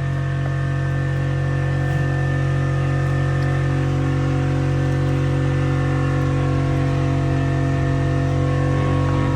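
A steady machine hum with several fixed tones, unchanging throughout, with a faint pulsing at about five beats a second during the first few seconds.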